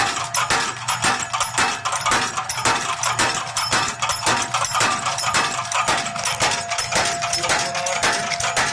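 Motor-driven power hammer striking hot steel in an even run of blows, about two or three a second, with a ringing tone from the dies.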